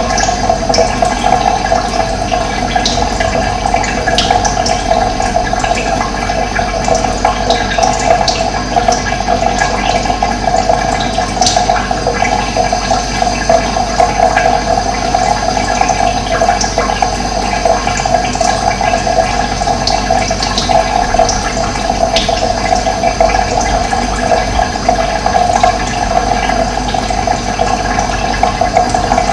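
Running water flowing steadily, with a few short high bird chirps here and there.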